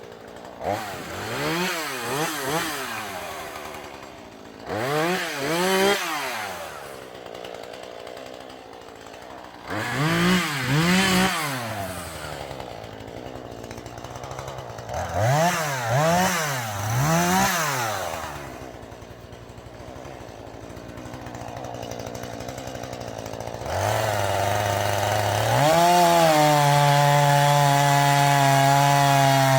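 Husqvarna 440e two-stroke chainsaw revved in short throttle blips, a few quick bursts at a time, dropping back between groups. Near the end it is held at a steady high speed.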